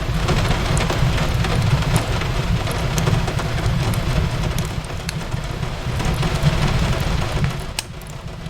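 Steady rain on a window over a low rumble, with scattered sharp crackles from a wood fire in a fireplace. The sound eases briefly near the end.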